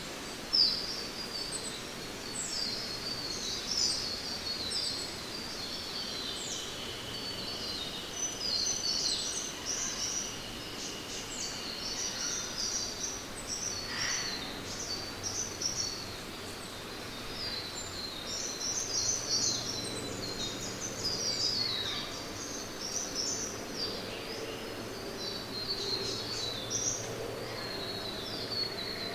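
Rainforest ambience: many birds chirping and calling at once, densely overlapping, over a steady background hiss. A long, steady, whistle-like note holds for several seconds near the start.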